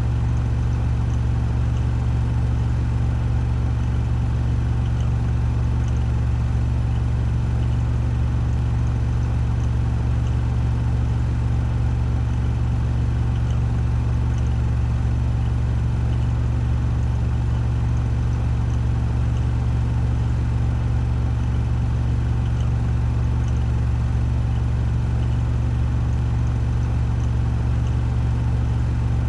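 Washing machine spinning at 1400 rpm on its spin cycle: a steady, even drum hum with a deep low drone and a whirring hiss above it.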